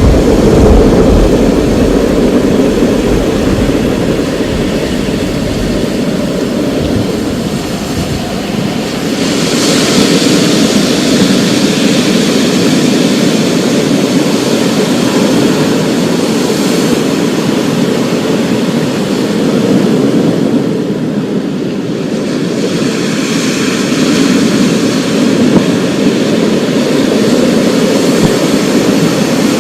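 Thunderstorm: a deep rumble of rolling thunder that fades over the first few seconds, over a steady rushing of heavy rain whose hiss swells twice.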